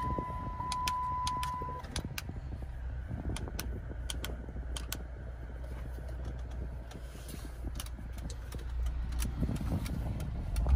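Dodge Challenger's V6 engine running steadily, a low rumble heard inside the cabin, with scattered light clicks. A steady high beep stops about two seconds in.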